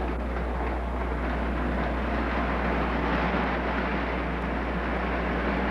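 Old-style electric toy trains of the Lionel and American Flyer kind running on the layout's track, a steady rolling rattle and whir that grows a little louder around the middle.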